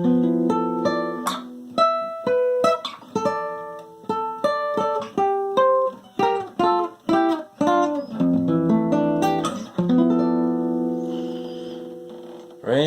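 Acoustic guitar played solo: a chord at the start, then a melody picked out note by note, then a sustained chord about ten seconds in that rings and fades away.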